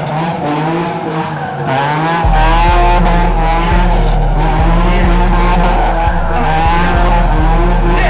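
Tyres squealing with a warbling, wavering pitch as a car is spun and slid on the pad, with the engine revving. About two seconds in, a heavy bass beat comes in under it.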